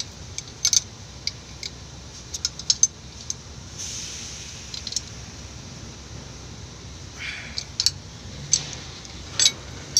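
Scattered sharp metallic clicks and clinks over a low steady hum, from metal tools and parts being handled during fuel-injector work.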